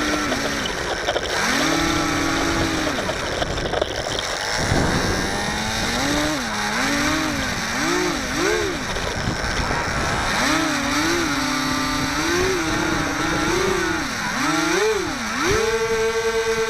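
Electric motor and propeller of a HobbyZone Firebird Delta Ray RC plane whining, its pitch rising and falling again and again as the throttle is worked, ending on a higher held note, over a steady rush of wind on the microphone.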